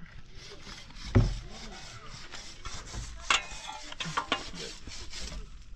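Repeated scraping of soil and stones as the ground is scraped level by hand, with a heavy thud about a second in and a few sharp knocks after three seconds.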